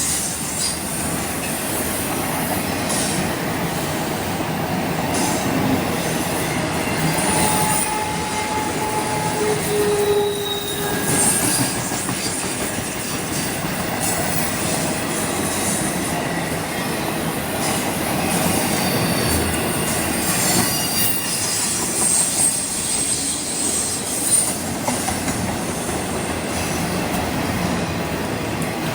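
Train rolling past with a steady rumble of steel wheels on the rails, and brief wheel squeals about eight to eleven seconds in.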